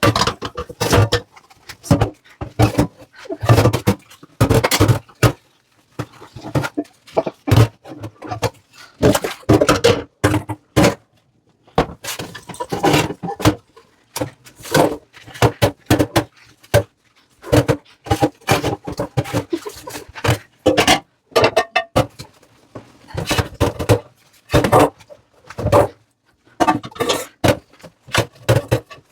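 Dishes and utensils being handled and set down in a kitchen sink: irregular clinks and knocks, some ringing briefly, in clusters separated by short pauses.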